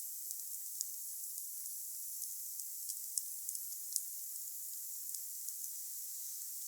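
Wood fire burning: a steady high hiss with scattered sharp crackles and pops, a few louder pops around the middle.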